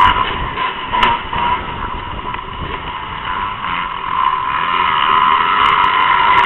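Motocross dirt bike engines running at high revs, the level dipping for a few seconds then growing louder near the end as the bikes come closer.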